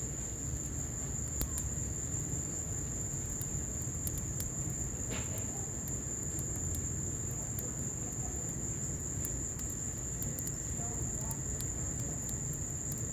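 Wood fire crackling in a patio fireplace, with scattered sharp pops over a steady low rush, and rain falling. A steady high insect trill runs underneath.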